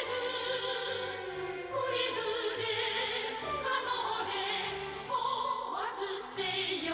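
Orchestral music in a classical, operatic style, with several melody lines held and moving together.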